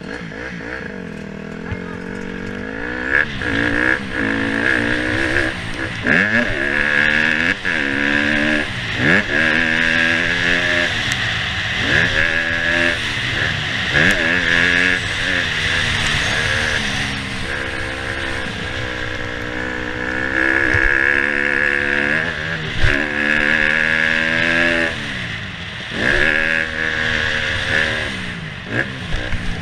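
Motocross bike engine being ridden hard, its pitch climbing and dropping again and again as the throttle is opened and closed through the track, under a steady rushing noise.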